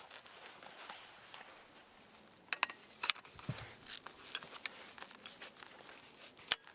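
Scattered clicks, taps and light rustling of things being handled, with two sharper clicks about two and a half and three seconds in.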